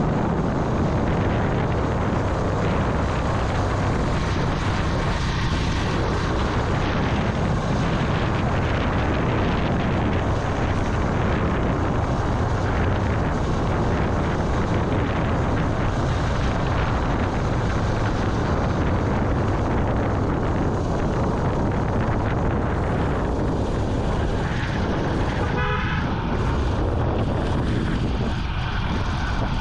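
Vintage Yamaha motorcycle running steadily on the move, with wind and road noise. A short horn toot sounds near the end.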